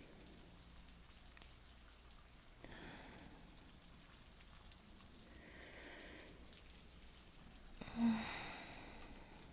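Steady rain falling, with a few soft breaths over it and a louder sigh near the end.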